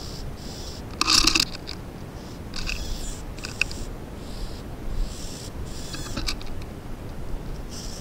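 Birds calling at a bird bath: one loud, harsh call about a second in, then a scatter of softer, short, high calls.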